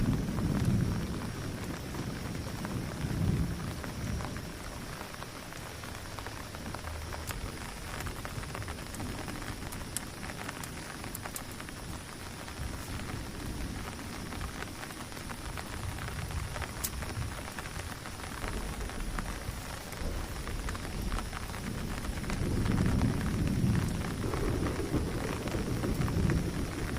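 Steady heavy rain falling, with scattered drops ticking sharply. Low rumbles of thunder swell in the first few seconds and again near the end.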